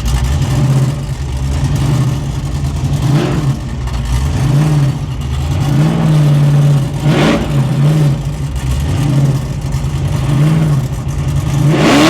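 Car engine revving up and down in repeated blips, with a brief rushing noise about seven seconds in and another at the end.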